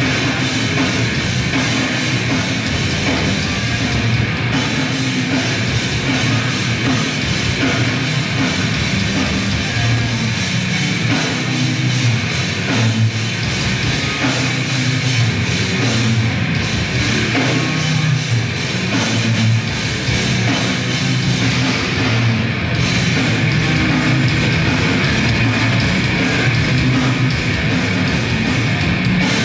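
Grindcore band playing live at full volume: distorted electric guitar and bass over fast, dense drumming, without a break.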